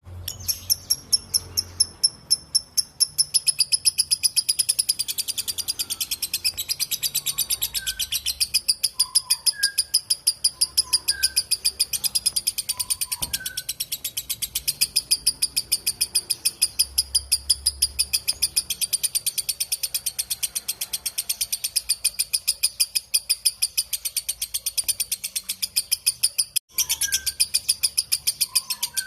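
Lovebird giving a long, unbroken 'ngekek' chatter: a fast, even string of shrill notes, several a second, with a brief break near the end. A few faint, softer chirps sound beneath it.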